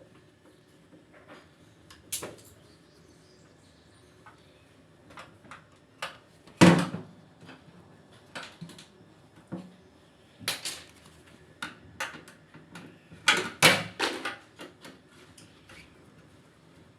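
Irregular clicks, knocks and clatters of hard parts and tools being handled during washing machine repair work. The loudest knock comes about six and a half seconds in, with a quick cluster of knocks near thirteen to fourteen seconds.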